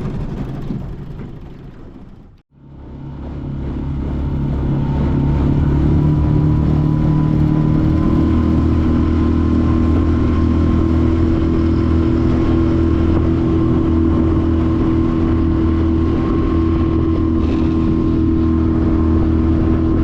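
A small boat's motor running under way. It fades out sharply about two seconds in, comes back up over the next few seconds, then holds a steady hum.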